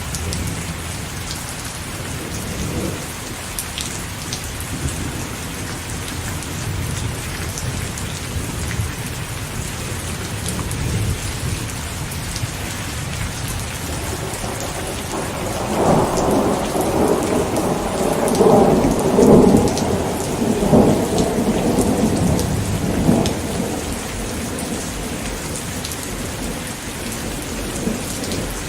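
Steady rain falling, with a long roll of thunder that swells about halfway through and rumbles on for several seconds before fading back into the rain.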